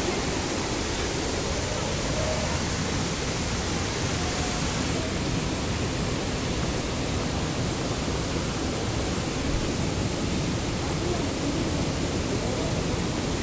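Waterfall: the steady rush of falling water, an even, unbroken noise.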